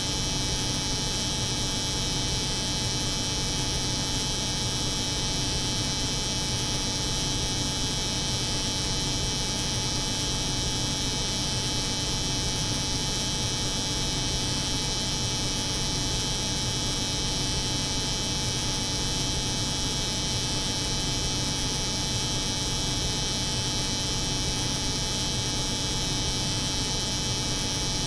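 Layered white noise of a cold room's refrigeration unit and an electric hair clipper running together: a steady, unchanging drone with a bright high hiss.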